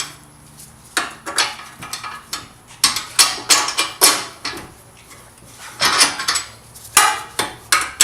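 Metal clinking and clanking as steel bolts are pushed through and lined up in car suspension parts, in several clusters of sharp clinks with a short pause about halfway through.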